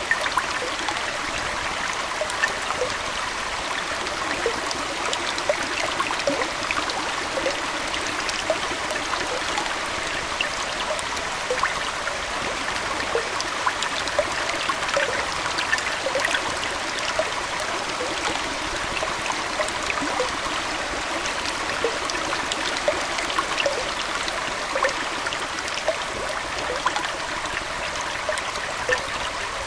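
Aquarium water flowing and trickling steadily, with a constant scatter of small bubbling plops.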